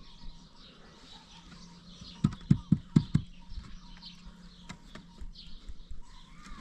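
Five dull thuds in quick succession, about two seconds in, with birds chirping faintly in the background.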